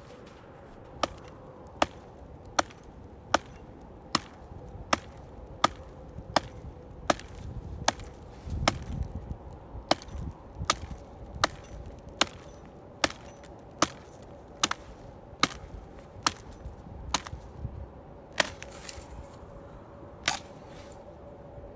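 Wood being chopped, most likely firewood for a tent stove: a long run of sharp, evenly spaced blows, about one every 0.8 seconds. The blows stop near the end, with one last blow a couple of seconds later.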